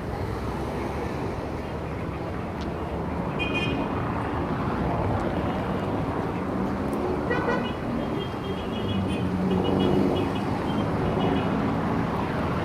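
Heavy city traffic: a steady rumble of engines and tyres, with short car horn toots about three seconds in, once near the middle and several times in the later part. An engine grows louder near the end.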